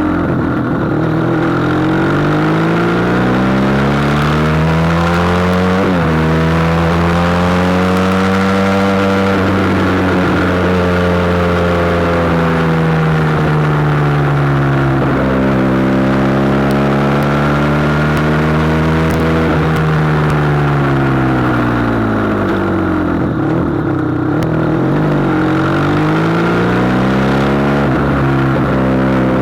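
SBM400s motorcycle engine under way, its pitch rising as it accelerates, then dropping sharply about six seconds in at a gear change. Later it swells and falls again several times as the throttle is opened and closed.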